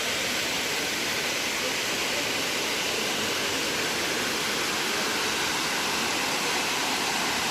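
Steady rush of Tirathgarh Waterfall, an even hiss of falling water with no breaks.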